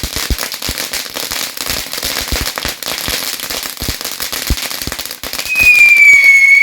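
Firework going off with a dense, rapid crackling of small pops. About five seconds in, a loud high whistle starts, dips slightly in pitch and rises again before it cuts off.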